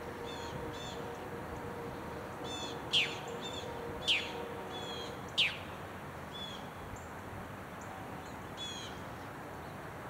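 Small birds calling: three sharp, brief whistles that drop steeply in pitch, a second or so apart, among several fainter quick high chirps.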